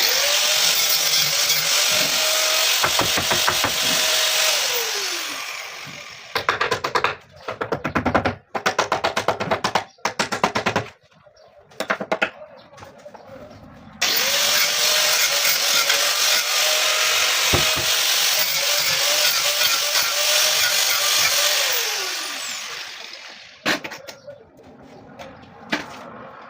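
A small electric power tool motor spinning up, running with a loud hiss and winding down, twice. Between the two runs comes a quick series of sharp, evenly spaced clicks.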